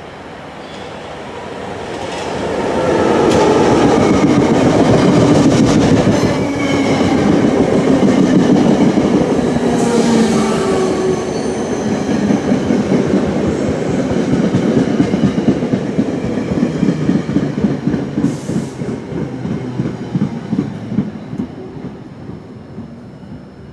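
Passenger train on electrified track approaching and passing at speed: a rushing rumble that builds over the first few seconds and holds loud, then a fast run of rhythmic wheel clicks that fades as the last cars go by.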